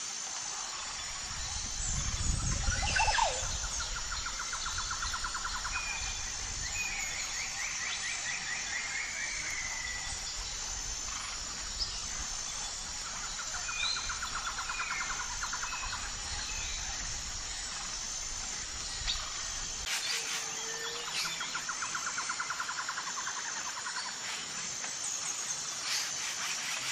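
Wild birds calling at a wetland: rapid trilled call series repeating every few seconds over a steady, pulsing high-pitched chirping, with a low rumble under the first twenty seconds or so.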